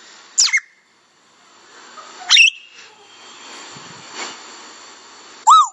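A parrot gives three short whistles: the first sweeps down in pitch, the second sweeps up, and a short arched whistle comes near the end. A faint steady hiss lies underneath.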